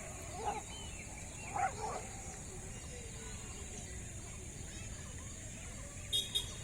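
Two short pitched animal calls, about half a second and a second and a half in, then a brief sharp sound near the end, over a steady high hiss.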